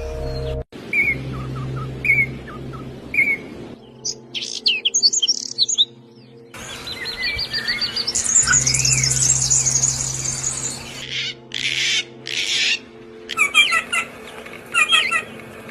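Small songbirds chirping and singing in short calls and quick trills, made of several spliced recordings that change abruptly, with a steady low hum underneath. Near the end a bird repeats a quick three-note chirp.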